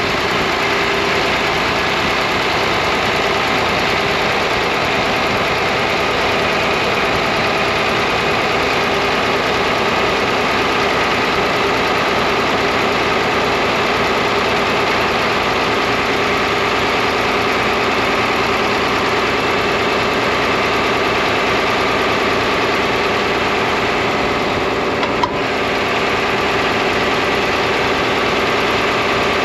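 John Deere 4010 tractor engine running steadily at idle, with a brief click late on.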